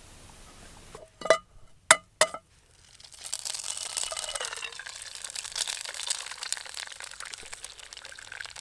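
An egg tapped three times on the rim of a metal frying pan, each tap ringing briefly, then the egg frying in hot oil with a steady crackling sizzle.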